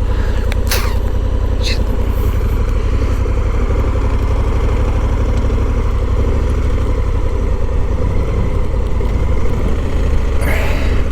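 Honda Africa Twin 1100's parallel-twin engine running at low speed with a steady low rumble as the motorcycle is ridden slowly.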